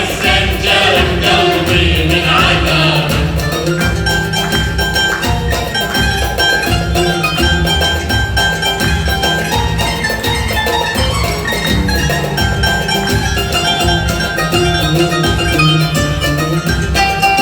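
Live Iraqi folk ensemble music: voices singing together for the first few seconds, then an instrumental passage of plucked strings over percussion.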